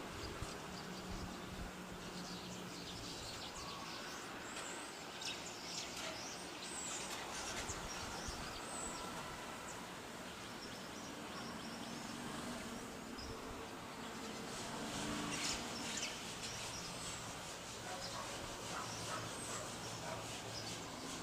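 Outdoor ambience of scattered bird chirps over a steady background hiss and a faint low hum.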